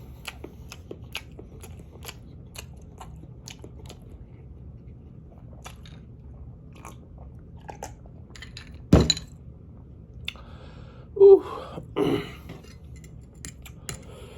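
Close-miked chewing of spicy ramen noodles and sausage, with many small wet clicks of the mouth. About two-thirds of the way in there is one loud sharp knock, followed shortly by two short vocal noises from the eater.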